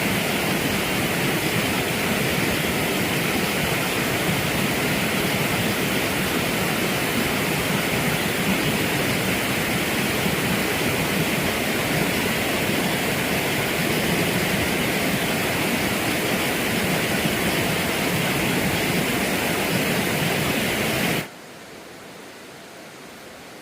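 Steady rushing water. It stops suddenly near the end, leaving a much quieter hiss.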